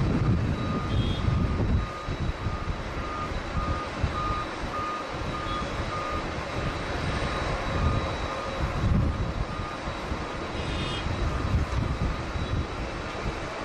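Gusts of strong wind buffeting the microphone, with a vehicle's reversing beeper sounding short, evenly spaced beeps, a little under two a second, that stop about halfway through.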